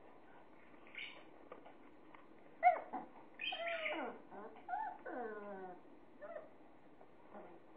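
Young puppies whimpering and squealing: a few short squeaks, then two longer whines that slide down in pitch in the middle.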